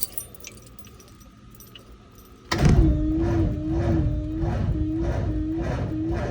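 Hot engine cranking slowly on its starter, with a whine that rises and dips with each compression, about two compression strokes a second. A faint steady tone comes first; the cranking starts suddenly about two and a half seconds in and the engine does not catch.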